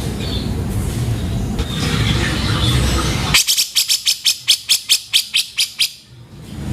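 Cucak jenggot (grey-cheeked bulbul) giving a fast, harsh chattering run of about fifteen notes, roughly six a second, starting about halfway through, over a steady low background rumble.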